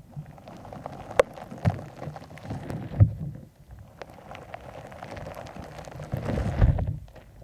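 Crunchy shaved-ice slime being squeezed and kneaded by hand, a continuous gritty crackle with squelches and sharp pops, the loudest about a second and three seconds in, swelling fuller near the end.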